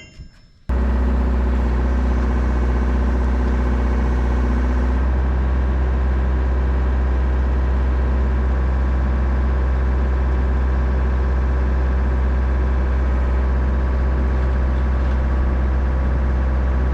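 A large diesel engine, most likely the excavator's, running at a steady speed. It cuts in suddenly about a second in.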